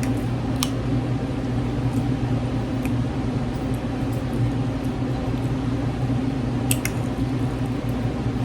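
Close-miked eating: wet chewing with a few sharp clicks, a close pair near the end, over a steady low hum.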